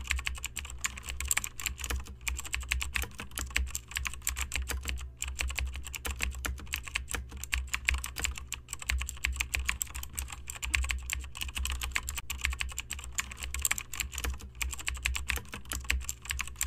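Typing sound effect: rapid, continuous keyboard key clicks, with only brief pauses, over a steady low hum.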